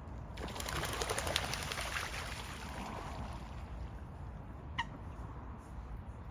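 Wings flapping rapidly for about two and a half seconds as a waterbird takes off, followed near the end by one short, sharp bird call.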